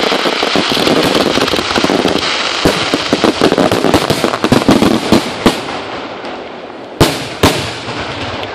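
Fireworks going off: a dense rapid crackle of many small pops that thins out after about five seconds, then two loud sharp bangs close together near the end.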